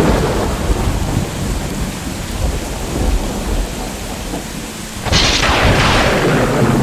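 Heavy rain with thunder: a thunderclap dying away at the start, then a second sudden crack of thunder about five seconds in that rolls on and fades slowly.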